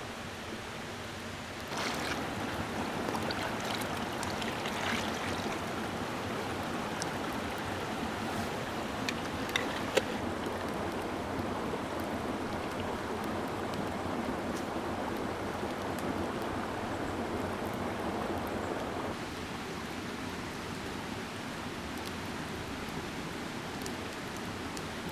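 Mountain stream rushing, a steady water noise that gets louder about two seconds in and drops back a little near the end, with a couple of sharp clicks around the middle.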